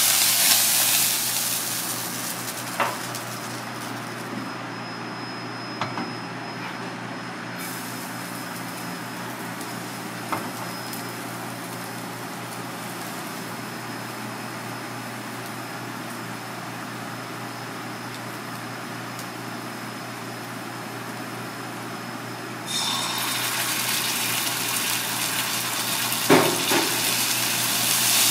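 Food frying in oil in a cast-iron wok: a loud sizzle at first that settles into a steady frying hiss of minced garlic, with a few light knocks of chopsticks on the pan. The sizzle grows louder again about three-quarters of the way through.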